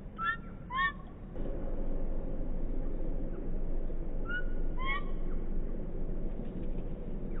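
Bird calls: two pairs of short, pitched chirps, one pair near the start and one about four and a half seconds in. Under them is a steady background noise that gets louder about a second and a half in.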